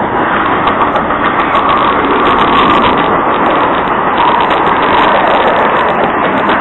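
Train passing at close range: a loud, steady rush of wheels on rail with rapid clicking throughout.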